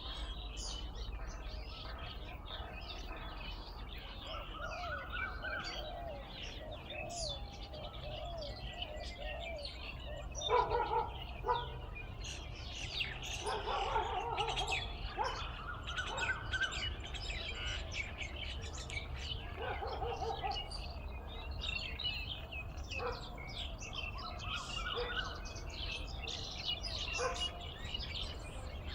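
Several songbirds chirping and calling at once, with many quick high chirps throughout. Lower, louder call notes come in bunches around the middle. A steady low hum runs underneath.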